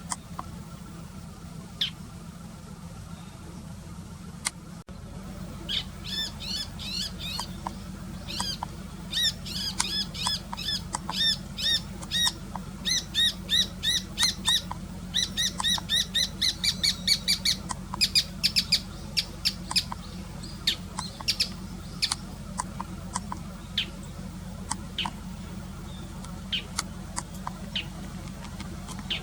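Bull-headed shrike calling: a long run of quick, sharp, high chattering notes, several a second, starting about five seconds in and thinning to scattered single notes after about twenty seconds. This is typical of its autumn territorial calling. A steady low hum lies underneath.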